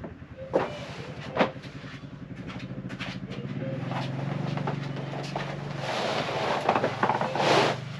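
A vehicle engine approaching and pulling up, its low hum growing louder over several seconds, with a rushing, crunching noise near the end.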